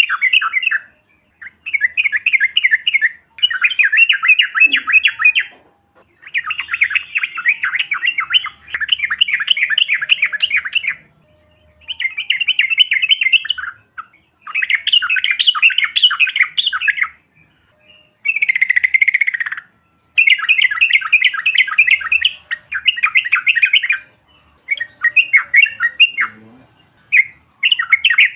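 Yellow-vented bulbul (trucukan) singing its long rolling song: bursts of rapid bubbling chatter, each one to two seconds long, repeated with short pauses.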